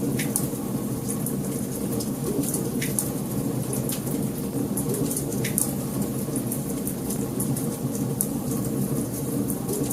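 Wood fire in a fireplace crackling: a steady low rush of burning with frequent sharp snaps and pops scattered through it.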